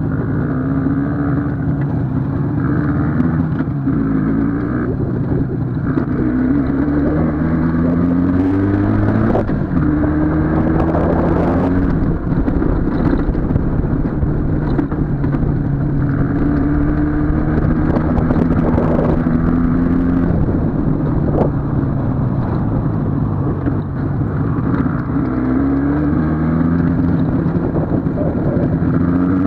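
Two-stroke IZh motorcycle engine under way, its pitch climbing again and again as it accelerates and then dropping back at each gear change.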